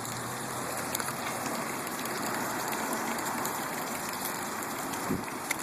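Steady rush of running water, such as a koi pond's waterfall or fountain, with a soft thump near the end.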